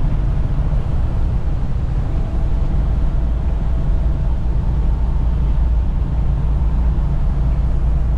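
Steady low drone of a semi truck at highway speed, heard inside the cab: diesel engine and road noise.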